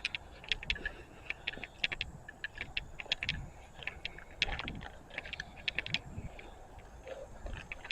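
Footsteps crunching through brush and debris: irregular sharp crackles and snaps, with a dull thud at each step about every second and a half.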